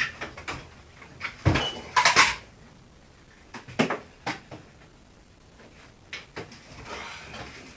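Knocks and clatter of refrigerator parts being handled during dismantling, the loudest pair about one and a half and two seconds in, followed by a few lighter clicks and a soft scrape near the end.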